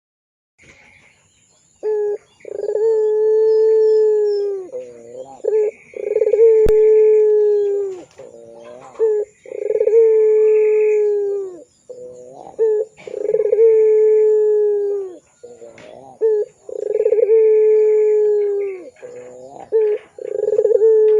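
Puter pelung (domestic barbary dove) cooing: a run of long drawn-out coos, each held at one pitch for about two seconds and dropping at the end, with short notes between them. The coos repeat about every three and a half seconds and begin about two seconds in.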